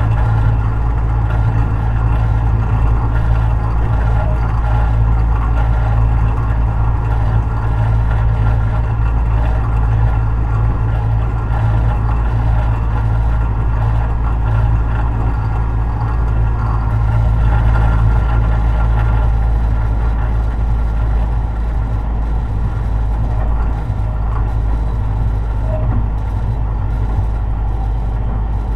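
Tobu 50090 series electric commuter train running at speed, heard inside a car near its underfloor equipment: a steady rumble of wheels on rail with the traction motors' hum, swelling slightly a little past halfway.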